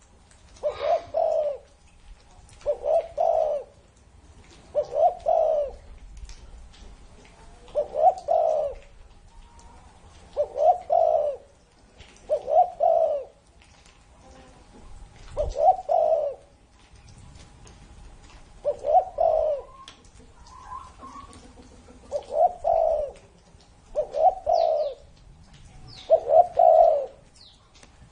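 Spotted dove cooing, repeating its short multi-note coo phrase about every two seconds. Faint high chirps from another small bird come near the end.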